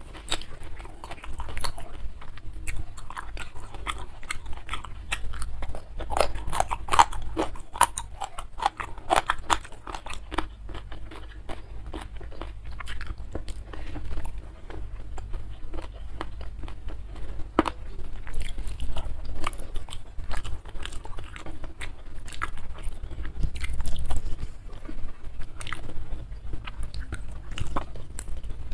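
Close-miked chewing and crunching of crisp raw young jengkol (jengkol muda) eaten with sambal, a dense run of crunchy bites that is busiest and loudest a few seconds in.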